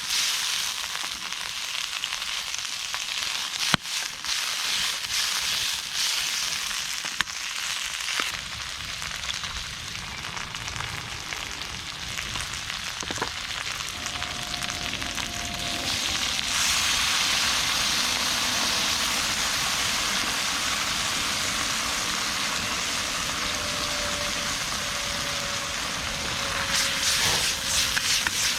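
Food sizzling and frying in a wok over a campfire, with a few sharp crackles in the first several seconds. The sizzle grows louder about halfway through.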